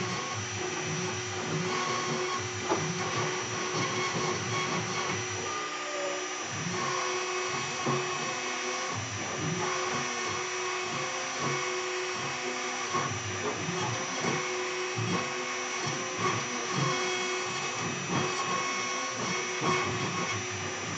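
A CNC router carving wood: its 2.2 kW air-cooled spindle runs with a steady high whine. Stepper motors hum underneath in tones that jump between pitches as the gantry moves.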